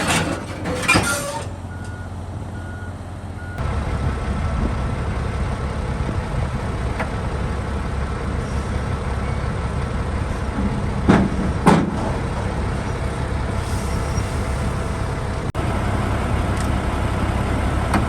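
Heavy diesel engine running with a steady low rumble, preceded by a few reversing-alarm beeps. Two short, loud hisses break in about two-thirds of the way through.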